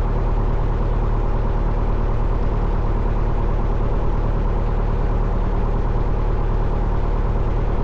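A 1972 Cessna Skyhawk's four-cylinder Lycoming O-320 piston engine and propeller running steadily at low power, heard inside the cabin, with an even throb and no change in pitch.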